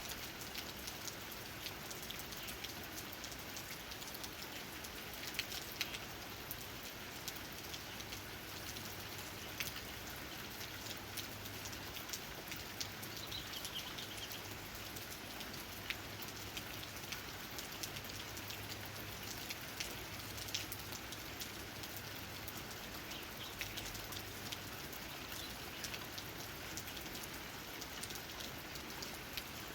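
Steady rain falling, with many individual raindrops ticking sharply on leaves through a constant hiss.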